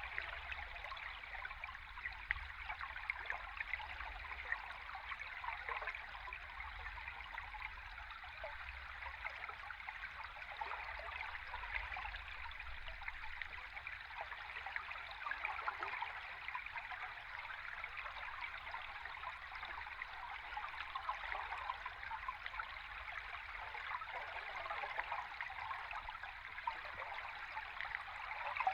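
River stream water recorded underwater: a steady rush of flowing water, thick with small bubbling flecks, over a faint low rumble.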